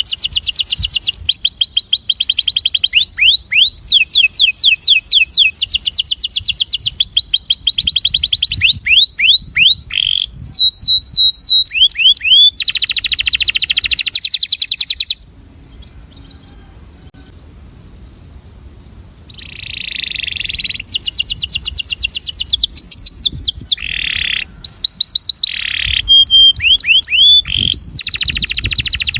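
Male canary singing: fast trills of rapidly repeated notes and quick sweeping notes, with a pause of about four seconds in the middle before the song starts again.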